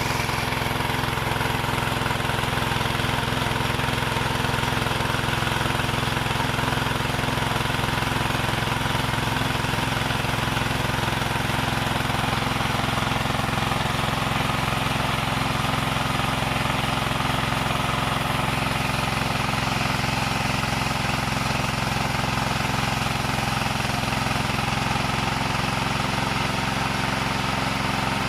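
Wood saw machine running steadily, its motor drone holding one unchanging pitch.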